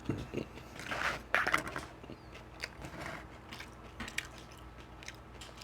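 Close-up chewing and biting of beef rib meat: wet mouth clicks and smacks, with a louder spell of chewing about a second in.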